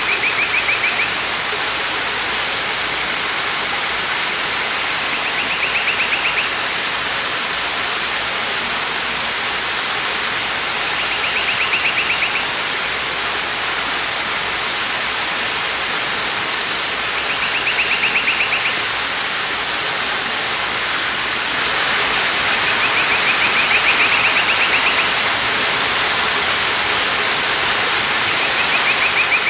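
Steady rush of falling water from a waterfall, with a short trilling call repeating about every six seconds.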